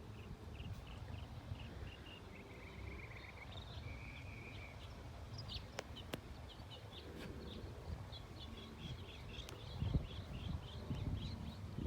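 Birds chirping in quick runs of short high notes, with a couple of brief trills, over a steady low rumble; a few sharp clicks come about halfway through.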